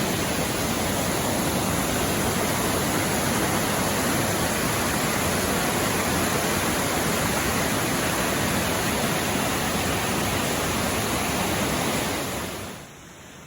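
Smith Creek, a mountain stream, rushing loudly and steadily over rocks. The rush drops off sharply near the end.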